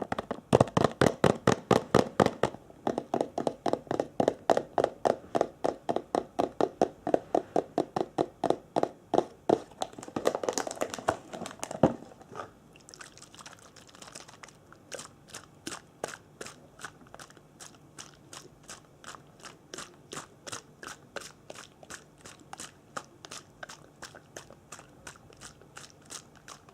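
Rapid, evenly spaced crisp crunching strokes, about four a second, louder for the first half and softer after about twelve seconds.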